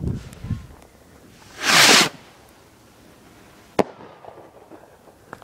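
Firework rocket launching with a short loud whoosh, then a single sharp crack of its burst about two seconds later.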